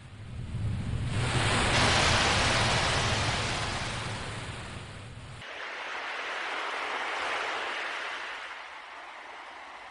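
Ocean waves washing in: two swells of surf rising and falling, the first louder than the second.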